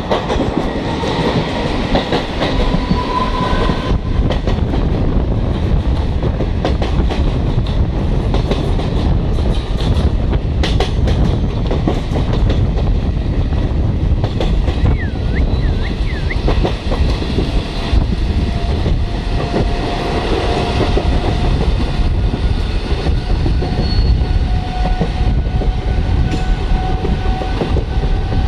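Running noise of a moving passenger train heard from on board: a steady rumble of wheels on the track, with wheels clicking over rail joints.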